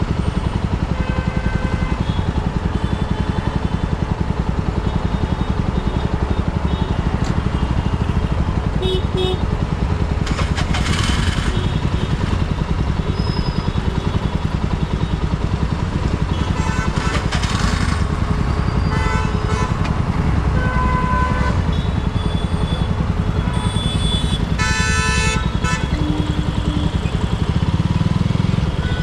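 Motorcycle engine running steadily, heard from on board the bike, with short bursts of street noise from people and traffic now and then.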